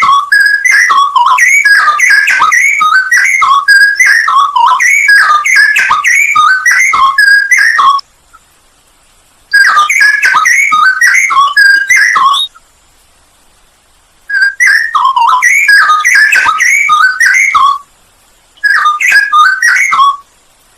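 Straw-headed bulbul (cucak rowo) singing rapid, warbling whistled phrases in four bursts, the first about eight seconds long and the rest shorter, each stopping abruptly with short pauses between.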